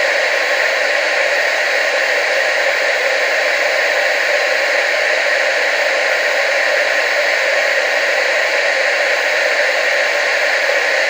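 Television static: a steady, unbroken hiss, strongest in the middle and upper range, with almost no bass.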